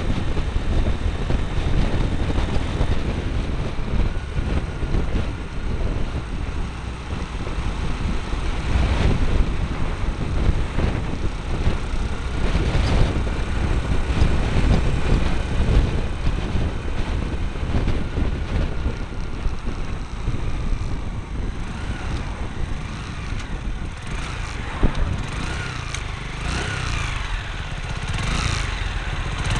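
Motorcycle engine running as the bike is ridden, under a heavy, steady low rumble. Near the end the engine note rises and falls several times.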